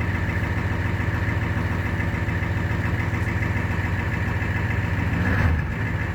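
Ford 7.3-litre IDI V8 diesel with a Banks turbo, idling steadily as it warms up after a cold start. About five seconds in, a short swell in pitch and loudness.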